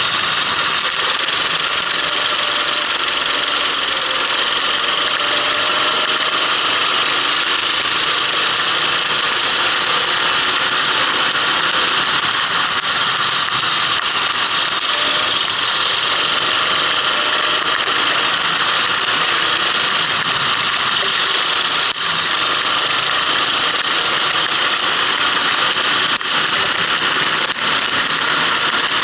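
Onboard sound of a racing kart's engine running at speed, its pitch rising and falling gently through the lap, under a steady loud rush of noise.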